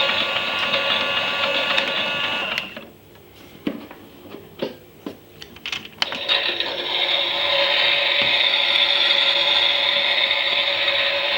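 Toy Miele Softtronic washing machine's small electric motor whining as it turns the drum, cutting out after about two and a half seconds. A few clicks and knocks follow during a three-second pause, then the motor starts again and runs steadily, the drum turning again in the wash.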